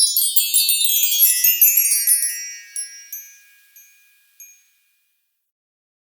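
A sparkling cascade of high, tinkling chime notes, wind-chime-like, that steps downward in pitch and thins out, with a few last pings before it dies away after about four seconds.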